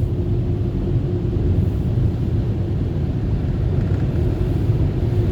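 Automatic touchless car wash machinery running, heard from inside the car: a steady low rumble with a constant hum.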